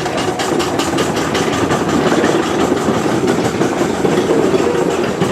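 An engine running steadily at a fast, even beat.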